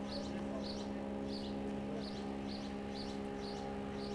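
A small bird chirping over and over, about two short high chirps a second, over a steady low hum.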